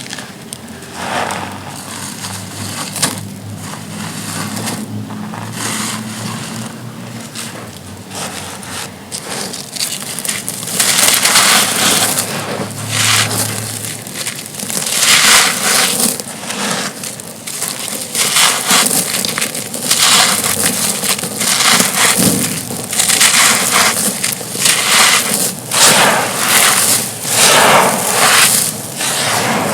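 Thin, dry, dusty stone-like slabs being crushed and crumbled, giving a run of irregular dry crunches and crackles. The crunches are sparser at first and become louder and closer together about a third of the way in.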